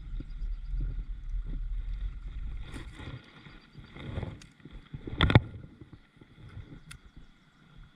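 Kayak on the water with low rumbling handling and water noise, then one sharp knock a little over five seconds in and a lighter click near the end.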